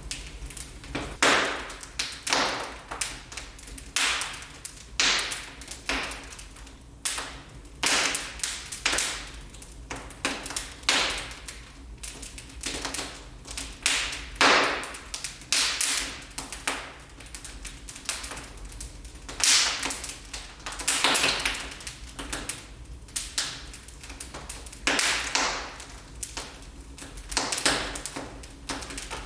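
Wood fire crackling in a fireplace: irregular sharp pops and snaps, some single and some in quick clusters.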